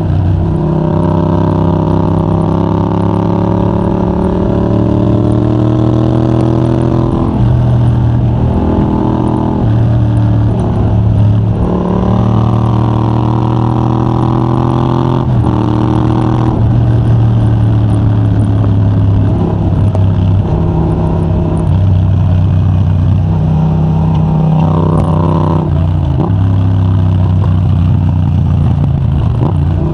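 Yamaha MT-07's 689 cc parallel-twin engine through a de-catted Mivv GP Pro titanium exhaust, heard from a microphone in the rider's backpack, revving hard under acceleration. The pitch climbs again and again and then drops or breaks off, as the rider works through the gears and rolls off the throttle between bends.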